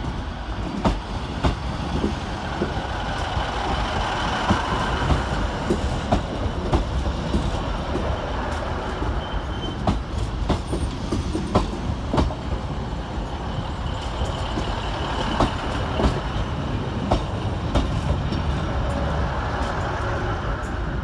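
Two coupled Class 156 Sprinter diesel multiple units rolling into a terminus platform, with a steady low rumble. Their wheels clatter with irregular sharp clicks over rail joints and pointwork.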